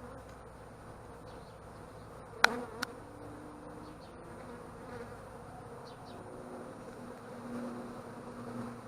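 Honey bees buzzing around an opened hive, a steady hum. A sharp knock about two and a half seconds in, with a smaller one just after.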